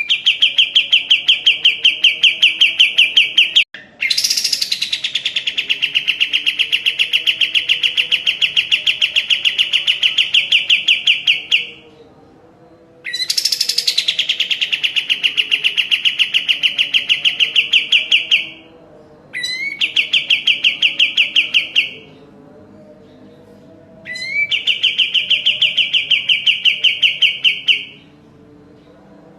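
Sooty-headed bulbul (kapas tembak) singing in repeated bouts of rapid, evenly pulsed trilling, each a few seconds long with short pauses between. Two of the bouts open with a quick falling note.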